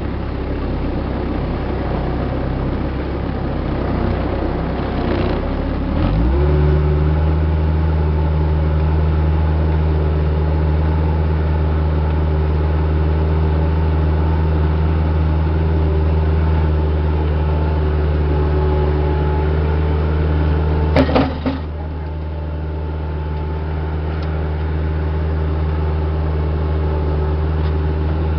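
Diesel engine of a piece of earthmoving equipment running, revving up about six seconds in and then holding a steady higher speed. A few sharp knocks sound briefly about two-thirds of the way through.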